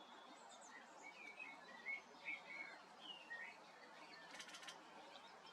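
Faint songbirds chirping in the open countryside: a scatter of short, curving high notes. A brief run of sharp clicks comes about four and a half seconds in.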